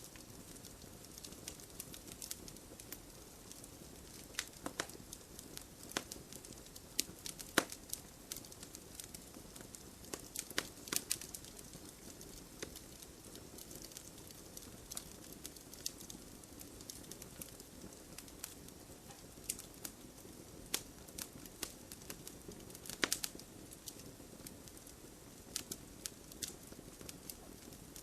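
Wood fire in a fireplace crackling: irregular sharp pops and snaps over a steady low hiss of burning.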